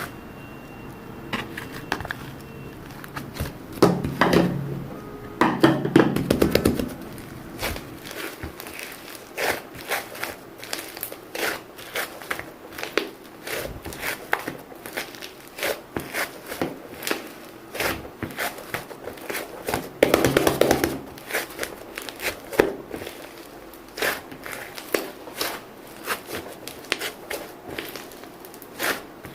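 Crinkling, rustling and light tapping of small objects being handled, with a few louder rustling stretches.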